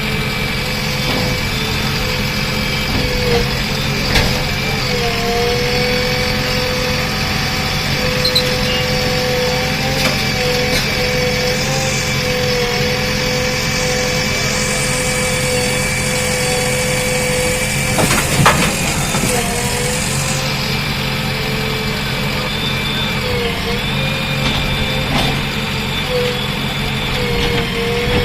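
JCB backhoe loader's diesel engine running steadily, with a steady high whine over it. A sharp knock comes about eighteen seconds in, and a hiss rises over several seconds in the second half.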